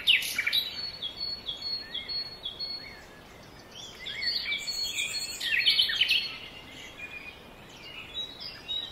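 Several small birds chirping and calling in quick short notes, busiest in the first second and again around the middle, with a thin steady high tone running beneath them for much of the time.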